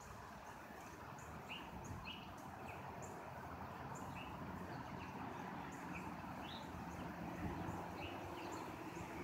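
Small birds chirping in short, high notes, several times a second and irregularly spaced, over a steady low background rumble.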